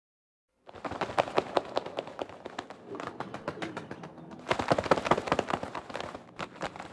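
A rapid, irregular series of sharp taps and clicks, starting about a second in and growing busier near the middle.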